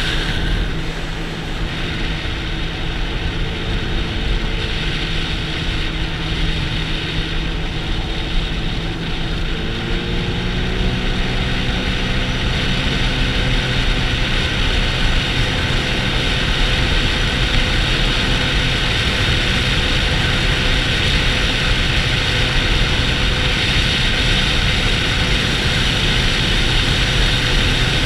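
Sea-Doo GTX 300 supercharged jet ski engine running steadily under way, with wind and rushing water. About ten seconds in, the engine note climbs as it speeds up, then holds at the higher pitch.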